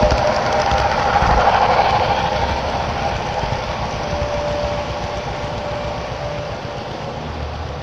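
HO scale model train running on the layout, its rolling noise and faint steady tones slowly fading as it moves away.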